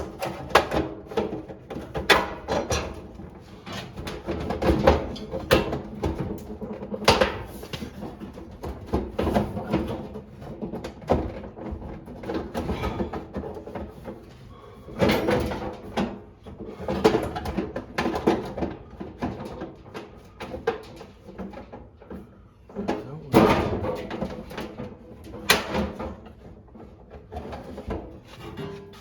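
Irregular clicks, knocks and clatter of tools and parts being handled during hand repair work, with a faint steady hum underneath.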